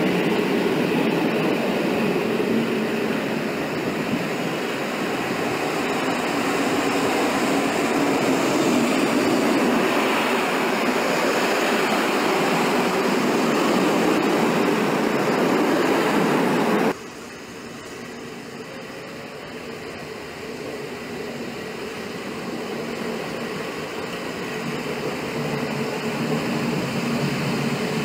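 Passenger coaches rolling past on the adjacent track: a steady, loud rumble of wheels on rails. About two-thirds of the way through it cuts off abruptly, giving way to a quieter rail rumble that slowly grows louder as another train approaches.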